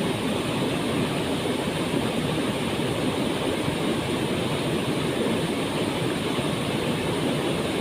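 Waterfall pouring steadily: a constant, even rushing of falling water.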